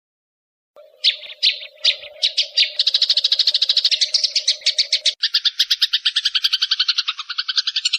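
Eurasian tree sparrows in a fight: a few separate sharp chirps about a second in, quickly speeding into a rapid, unbroken chatter of short chirps, about ten a second, that grows denser about five seconds in. A faint low steady tone runs under the first half and stops when the chatter thickens.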